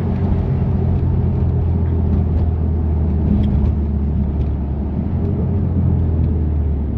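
BMW F80 M3 Competition's twin-turbo straight-six running steadily through its loud exhaust (catless downpipes, single midpipe, valved axle-back with the valves open), a constant low drone that holds at one pitch.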